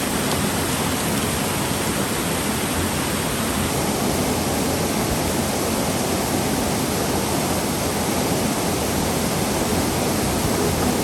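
Steady rush of water, a waterfall or fast creek, as a loud even roar with no breaks.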